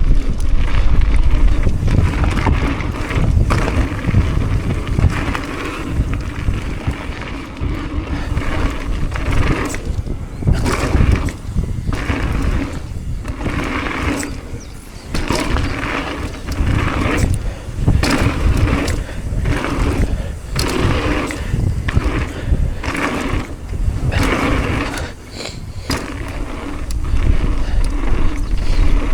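Mountain bike being ridden down a dirt trail: knobbly tyres rolling and skidding over dirt and stones, with the bike rattling over bumps in irregular surges and wind buffeting the microphone.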